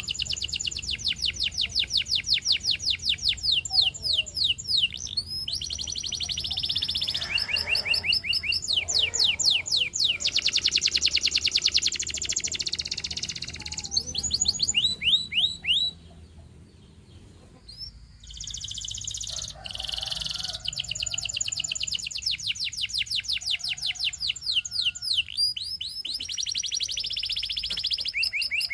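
Canary singing in long, fast trills of rapidly repeated sweeping notes, phrase after phrase, with a short pause about sixteen seconds in.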